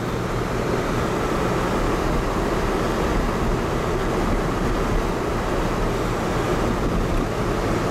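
Steady road noise of a car driving: a low engine and tyre rumble with a constant hiss, heard from inside the cabin.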